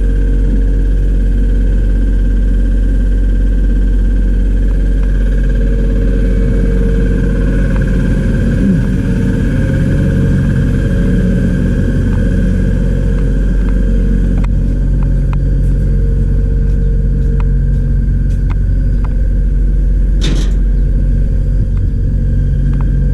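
A motor-driven machine running steadily with a deep hum and a faint high whine, with light ticks in the second half and a brief hiss about twenty seconds in.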